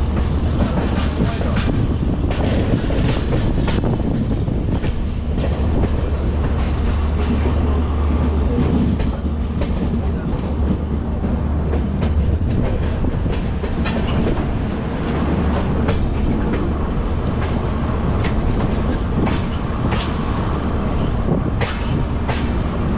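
Passenger train coach running on the rails, heard from its open doorway: a steady rumble and rush, with the wheels clacking sharply and irregularly over rail joints and pointwork.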